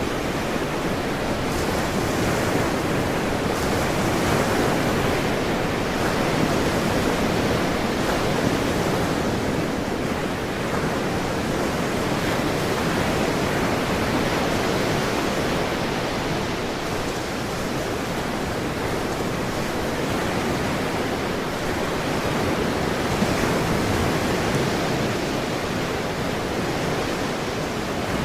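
Ocean surf: a steady rushing wash of waves with gentle swells in level.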